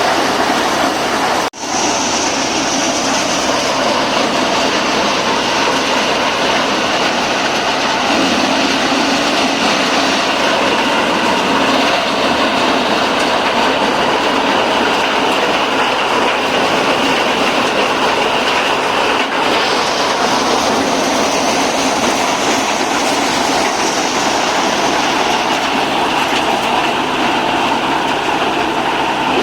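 Tractor-powered maize thresher running steadily: a loud, continuous mechanical clatter and rumble as the corn is threshed, broken by a momentary dropout about a second and a half in.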